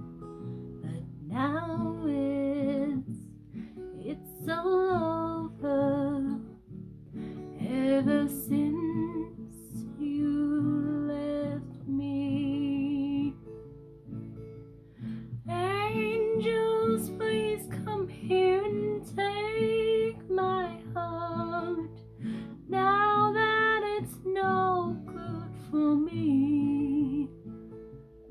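A woman singing a slow ballad in phrases with short pauses, accompanied by strummed and plucked guitar.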